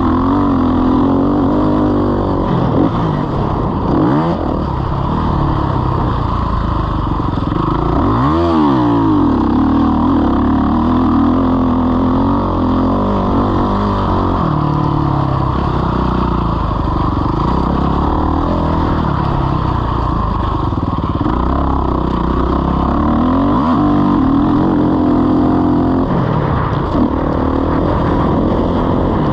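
Motocross bike engine racing under load, its revs rising and falling with throttle and gear changes. There are sharp drops and climbs in pitch about four, eight and twenty-three seconds in.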